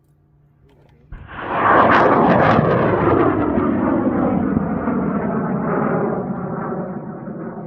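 High-power amateur rocket on an Aerotech N4000 motor lifting off: the motor's roar breaks in suddenly about a second in, then slowly fades as the rocket climbs away, its tone sweeping downward.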